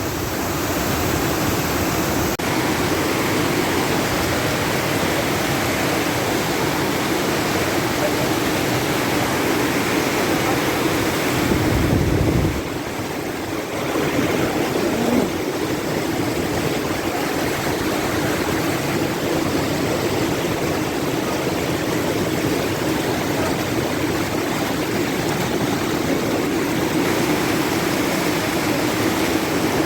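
Waterfall, water rushing in a steady, loud hiss, with a brief low rumble about twelve seconds in.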